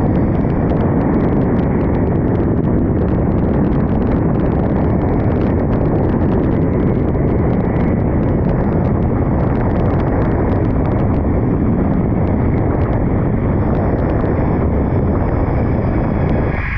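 Wind buffeting the microphone of a camera speeding along a zipline: a loud, steady rush of noise with faint ticking, easing slightly near the end.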